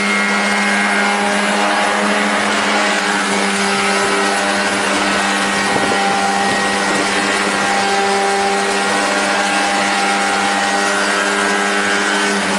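Engine and propeller of a homemade aircraft running steadily at high speed, a loud, even drone with a held pitch.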